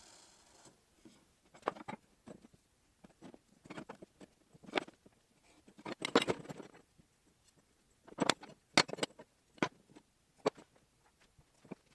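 Irregular light knocks and clatters, a dozen or so separate hits with a denser cluster in the middle, typical of objects being handled and set down in a workshop.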